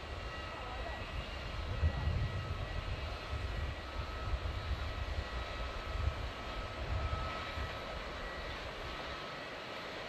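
Jet airliner engines rumbling as the plane passes. The rumble swells about a second in, stays strong through the middle and fades near the end, over a faint steady whine.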